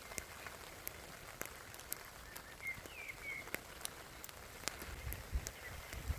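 Campfire wood crackling: scattered sharp pops and ticks at an irregular pace. A bird chirps briefly near the middle.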